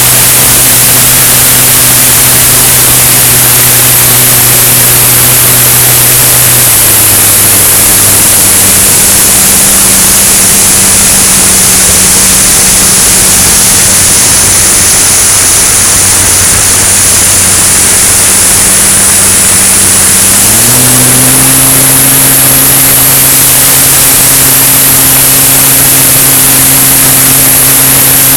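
Cessna 170 light aircraft in flight: the engine and propeller give a steady low drone under a heavy rush of air noise. The engine note drops about seven seconds in and climbs back up around twenty-one seconds, as the power changes.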